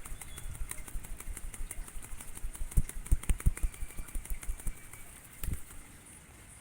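A bird's wings flapping in a quick run of soft thumps a little under three seconds in, amid light rustling and clicks from handling.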